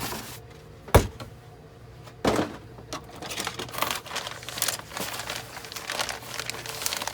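Cardboard model-kit box being opened: a sharp knock about a second in and a softer one over a second later, then the crinkling of plastic-bagged parts being handled.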